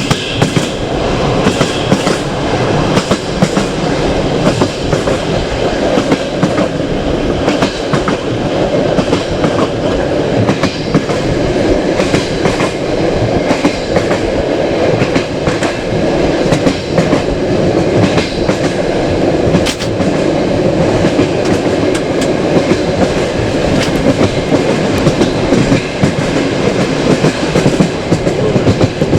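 Passenger train coach running along the track: a steady rumble and hiss with frequent irregular clicks and knocks from the wheels on the rails.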